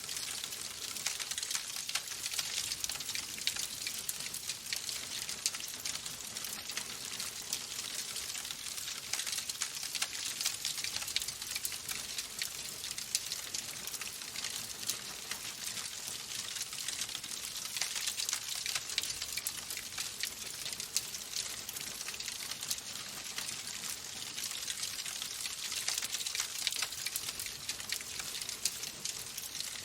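Wood fire burning in a fireplace, crackling steadily with a dense run of small pops and snaps over a soft hiss.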